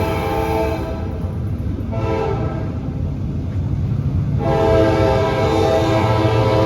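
Diesel freight locomotive's air horn sounding in the pattern of a grade-crossing signal: a long blast ending under a second in, a short blast about two seconds in, then a long blast from about four and a half seconds on. Underneath it runs the low rumble of the train.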